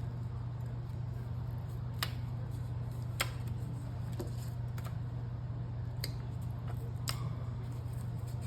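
A handful of sharp, separate clicks and snips from handling paper craft pieces and tools, over a steady low hum.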